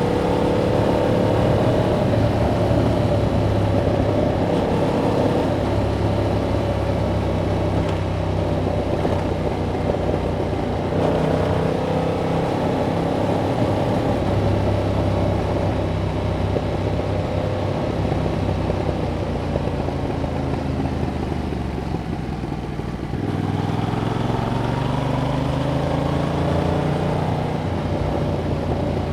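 Yamaha MT-07's parallel-twin engine running through its stock exhaust while riding, pitch rising in pulls as it accelerates near the start, about a third of the way in, and again near the end, with steadier cruising between.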